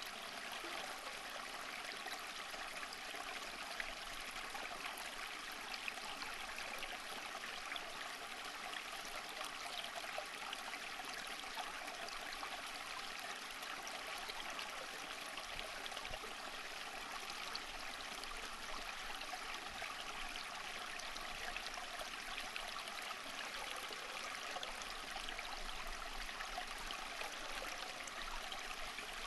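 Running water, a steady flowing stream with fine splashing and trickling detail.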